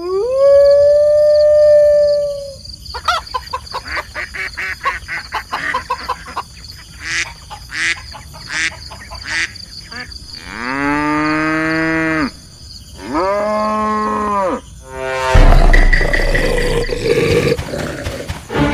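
Farm-animal calls: a long held call at the start, a run of rapid clicks, then two drawn-out cattle moos. A loud, noisy stretch follows near the end.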